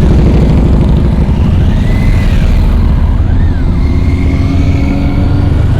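Motorcycle engine running steadily under way, a loud low rumble. A faint high tone rises and falls twice in the middle.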